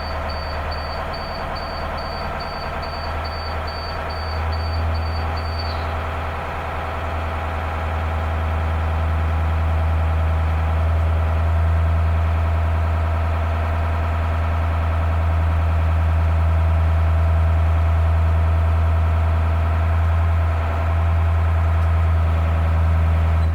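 School bus diesel engine idling, heard from inside the bus, with a high-pitched warning beep repeating about two to three times a second that stops about six seconds in. This is the low-air warning set off by pumping down the air brakes.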